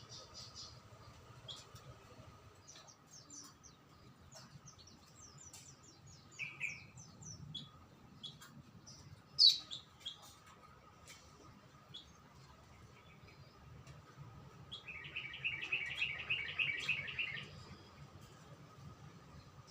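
Songbirds chirping: scattered short, high chirps, a loud single call about halfway through, and a fast rattling trill lasting about two seconds near the end.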